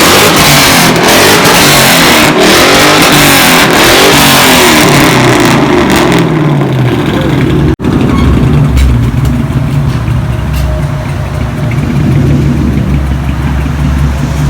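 Built 2002 Mustang GT's 4.6-litre four-valve V8 through a muffler-deleted exhaust, loud and raspy, revved up and down several times. After a sudden break it settles into a steadier, lower rumble.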